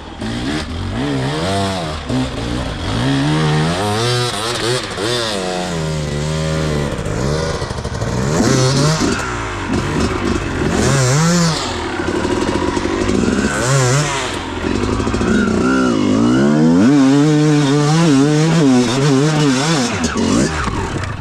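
Dirt bike engine being ridden hard, revving up and down over and over as the throttle opens and closes and it shifts gears. It cuts off suddenly at the end.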